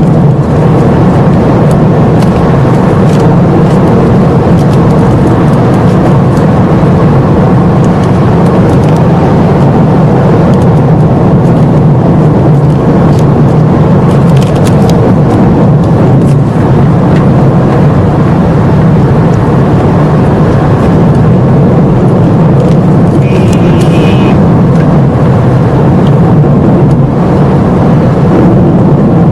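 Car driving along, its engine and road noise heard steadily from inside the cabin.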